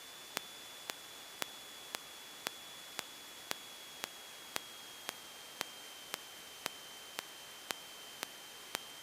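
Faint steady hiss with a thin high whine and a regular ticking about twice a second: electrical noise on an aircraft intercom feed while nobody is talking.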